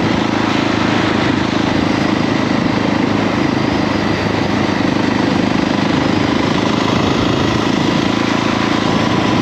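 KTM 690 SMC R's single-cylinder engine running at a fairly steady pitch, with no marked revving, under a dense rushing noise.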